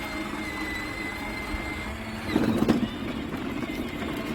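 Electric ride-on toy tractor's motor and gearbox whining steadily as it drives, cutting out about two seconds in, followed by a brief louder rough rumble.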